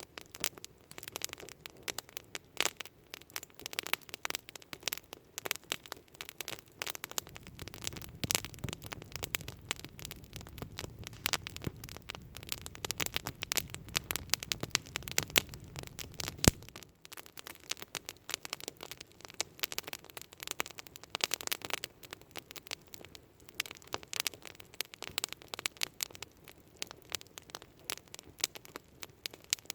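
Wood campfire crackling, with frequent sharp pops and snaps over a steady hiss. A low rumble underneath stops abruptly a little past the middle.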